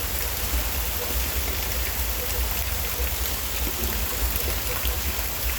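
Steady rain falling during a thunderstorm, an even hiss with a low rumble underneath.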